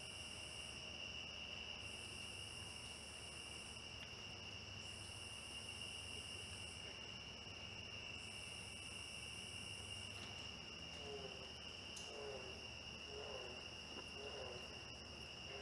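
Night chorus of crickets trilling steadily at a high pitch. Another insect calls in bursts about a second long, every three seconds, through the first two-thirds. From about two-thirds in, a frog gives short, low, slightly falling calls about once a second.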